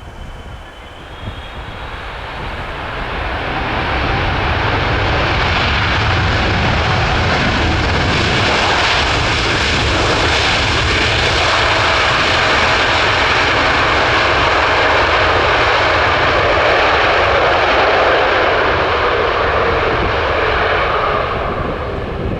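Jet airliner's engines roaring as it flies low past, building over the first few seconds, holding loud with a faint steady whine, then easing off near the end.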